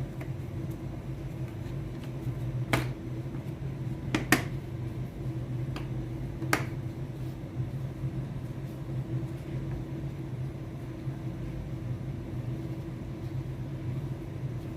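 A few sharp clicks from TV parts being handled during reassembly: one, then a close double, then one more. They sit over a steady low hum.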